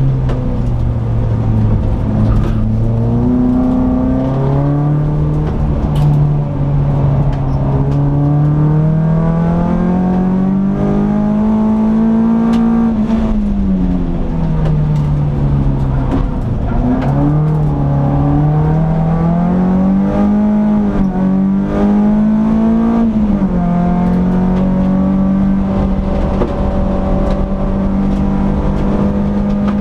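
Peugeot 206 S16's 2.0-litre four-cylinder engine heard from inside the cabin on track, its note climbing through the revs, falling back with gear changes and lifting off, then holding steady near the end.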